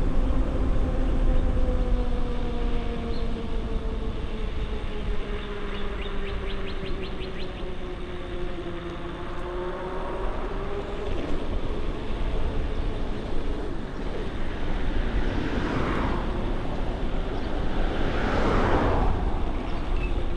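Electric bike motor whining steadily under pedal assist, its pitch sagging and then recovering with speed, over wind buffeting on the microphone. A brief run of rapid ticks comes about six seconds in, and two louder rushing swells come in the second half.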